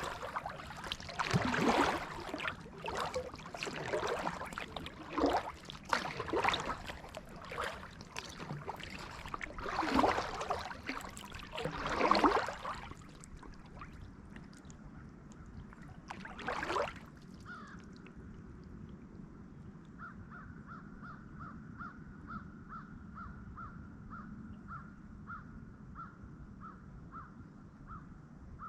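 Kayak paddle strokes splashing and dripping in the water, one every second or two, which stop about halfway through. After that, a bird gives a long run of short, evenly repeated call notes, about two a second.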